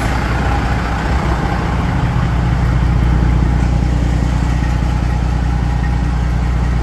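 Detroit Diesel Series 60 12.7-litre inline-six diesel in a Freightliner Cascadia idling steadily, exhausting through a straight stack with the one-box aftertreatment removed.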